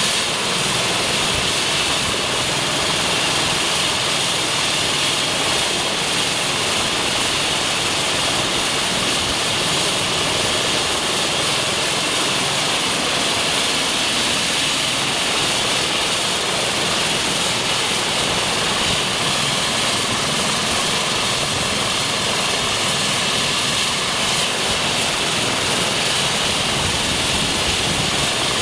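Eurocopter EC135 T2 helicopter running steadily: the high whine of its twin turboshaft engines over a constant rush of rotor and engine noise.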